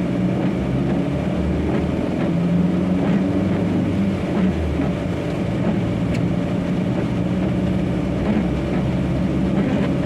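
Truck engine and road noise heard from inside the cab while driving, a steady low drone with no change in pace.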